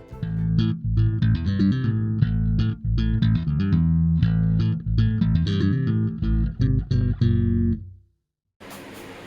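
Solo electric bass guitar music, plucked notes over a low line, ending about eight seconds in; a steady fan hum follows near the end.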